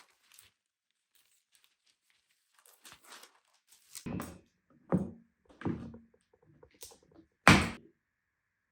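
A handful of dull knocks and thuds, like objects being handled and set down, with faint clicks between them. The last knock, about three quarters of the way through, is the loudest.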